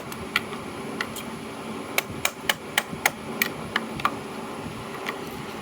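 A hammer tapping on the metal casing of a Delco starter to work it apart: about a dozen sharp taps, irregularly spaced, several in quick succession in the middle.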